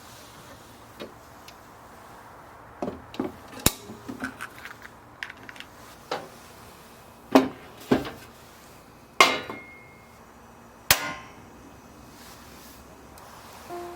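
Irregular clanks and knocks of hard objects, at first small and scattered, then four louder strikes in the second half, one of them leaving a short ring.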